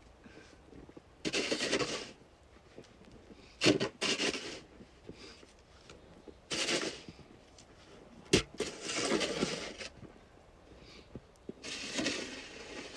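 Irregular bursts of scraping and rubbing, each lasting under a second, separated by quiet gaps, with a sharp knock about eight seconds in.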